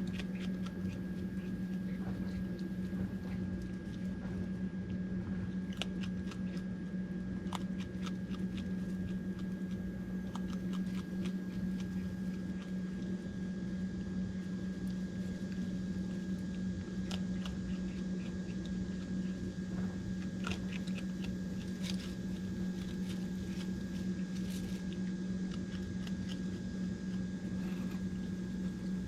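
A raccoon crunching and chewing dry dog food, irregular crunches throughout, over a steady low machine hum.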